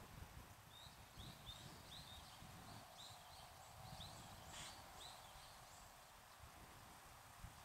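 Faint outdoor quiet with a bird chirping over and over in short, high calls, over a faint uneven low rumble.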